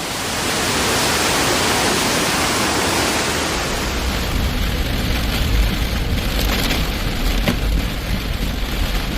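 Heavy downpour of rain: a loud, steady hiss, with a low rumble joining about three and a half seconds in.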